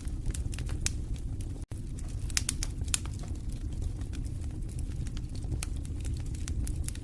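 Wood fire in a fireplace crackling, with frequent irregular sharp pops over a steady low rumble of the flames. The sound drops out for a split second a little under two seconds in.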